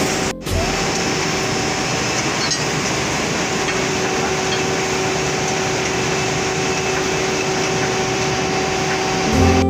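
Steady running noise of factory machinery, a constant roar with a low hum held underneath, with no break or rhythm.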